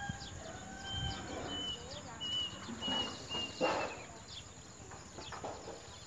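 Birds calling: a run of short, even, high chirps about twice a second, with lower drawn-out gliding calls near the start. Dry grass rustles and crackles through it, loudest a little past halfway.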